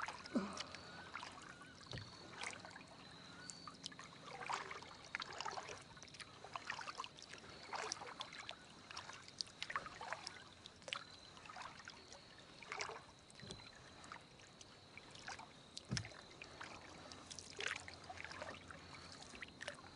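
Kayak paddle strokes: water splashing and dripping off the paddle blades, roughly one stroke a second, with a couple of sharp knocks.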